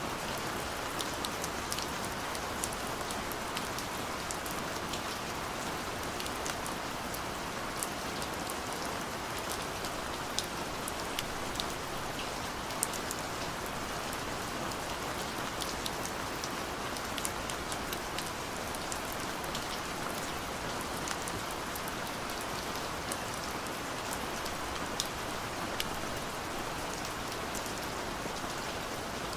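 Steady rain falling, a continuous hiss with scattered sharp drop ticks throughout.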